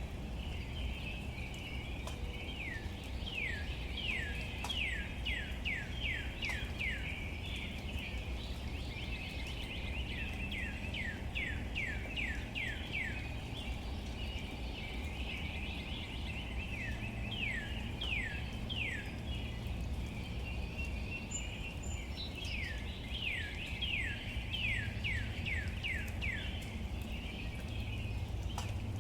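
Steady patter of rain on leaves with a low rumble beneath, over which a bird calls in bouts of quick down-slurred notes, about three a second, several times over.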